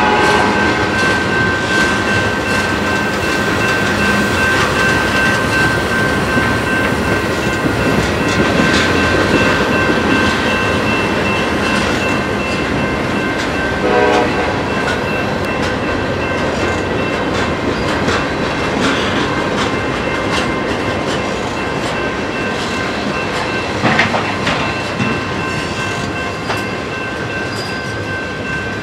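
Freight train of tank cars and covered hoppers rolling slowly past, the wheels rumbling and clacking over rail joints and switches with a steady high-pitched squeal. There is a sharp knock about 24 seconds in.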